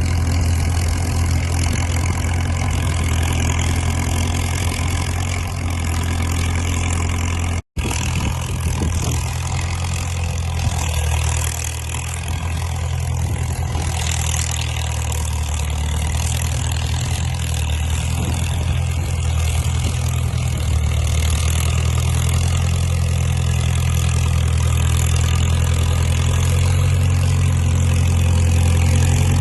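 Caterpillar crawler dozer's diesel engine running steadily while pulling a trail drag, a deep even hum. The sound cuts out for an instant about a quarter of the way in.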